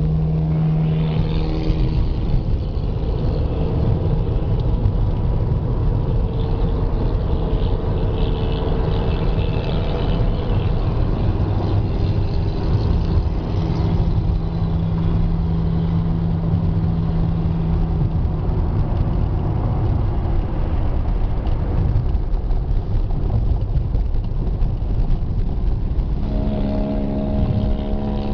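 Monster truck engine running loud, its pitch rising and falling as the engine revs up and down.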